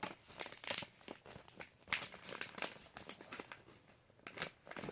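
Sheet of paper being folded and creased by hand, with irregular crinkling and crackling rustles.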